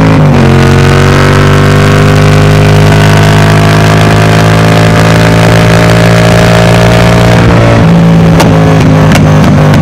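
Yamaha MT-07's 689 cc parallel-twin engine through a Mivv Delta Race full exhaust, running at fairly steady revs that creep slowly upward. Near the end the revs drop as the throttle closes, and a few sharp pops come from the exhaust on the overrun.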